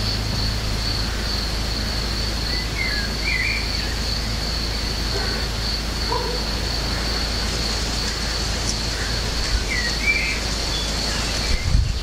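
Garden birds chirping: short twittering calls, a cluster about three seconds in and another near the end, over a steady low rumble and a constant thin high-pitched whine.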